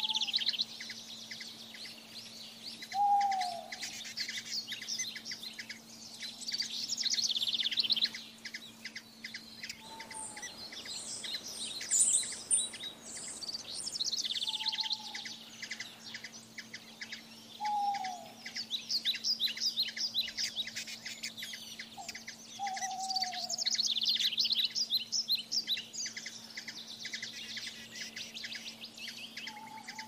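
Birdsong: dense, rapid high chirping and trilling that swells and fades every several seconds, with a short lower falling call repeated every three to four seconds.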